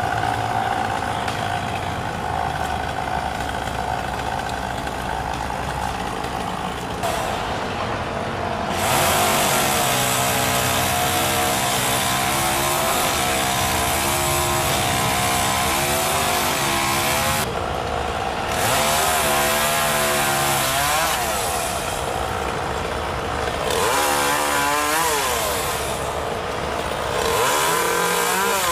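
Gas chainsaw running, at a steady lower speed for the first several seconds, then opened up about nine seconds in, its pitch rising and dipping under load as it cuts through a tree branch, easing off briefly twice before speeding up again.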